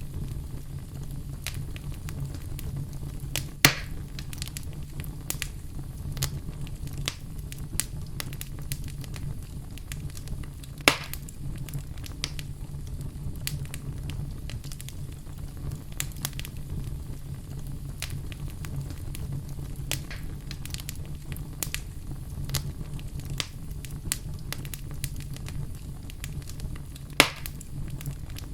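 Wood fire burning in a fireplace: a steady low rumble under constant crackling, with three louder pops about 3.5, 11 and 27 seconds in.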